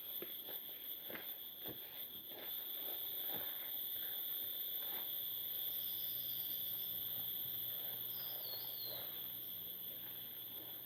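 Steady high-pitched chorus of forest insects, crickets or cicadas, chirring without a break. A few faint knocks sound in the first few seconds, and a short bird-like chirp comes in about two-thirds of the way through.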